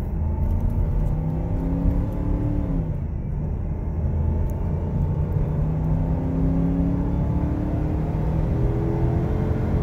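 Ford Expedition's V8 engine heard from inside the cab under hard acceleration, held at high revs in tow/haul mode. Its pitch climbs, falls back once about three seconds in, then climbs steadily again.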